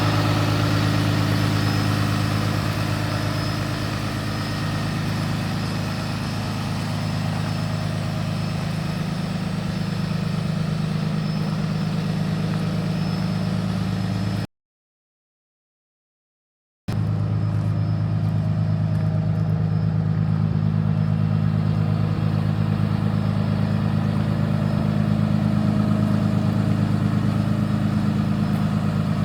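Cummins ISB 6.7 inline-six diesel in a Freightliner M2106 truck idling steadily at an even speed, cut to dead silence for about two seconds midway.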